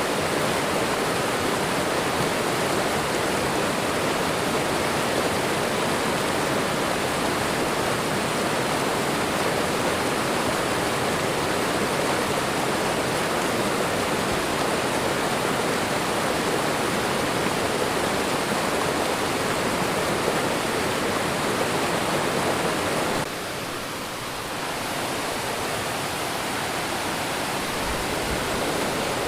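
Waterfall and running water: a steady, dense rush. It dips a little about three-quarters of the way through, then comes back up.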